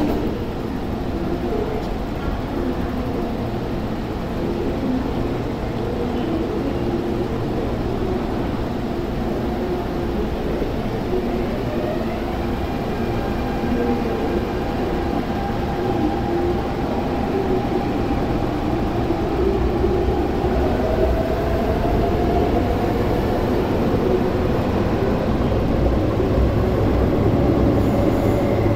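MTR Tung Chung line electric train standing at the platform and then pulling out, its traction motors whining in a slowly rising pitch as it gathers speed. The sound grows gradually louder towards the end.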